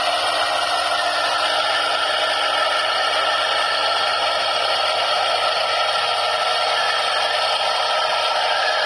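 Bearing spinning at a steady speed, giving a continuous whirring rush with faint steady tones in it.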